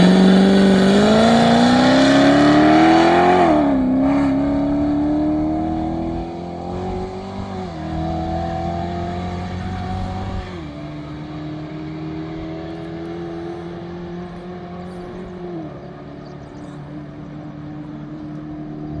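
Race car accelerating flat out on a standing-mile run, its engine pitch climbing and then dropping at each of four upshifts. The engine is loudest at the start and grows fainter as the car pulls away.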